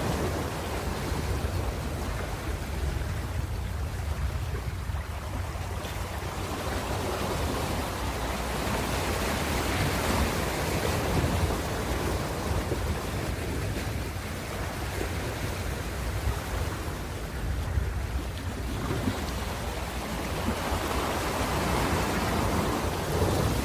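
Ocean waves breaking and washing on a shore, a continuous surf wash with a steady low rumble that swells and ebbs every several seconds.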